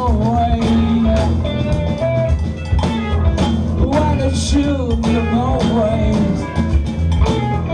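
Live rock band playing loudly: drum kit with regular cymbal hits, bass and electric guitars, with sliding melodic lines, likely a voice singing, over the top.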